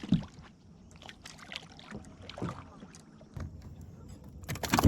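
Scattered small knocks and rattles on a fishing kayak as a hooked bass is brought in, with a louder burst of thumps near the end.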